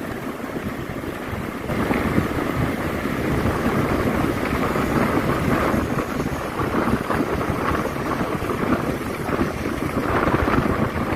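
Heavy rain falling steadily, with wind, getting louder about two seconds in.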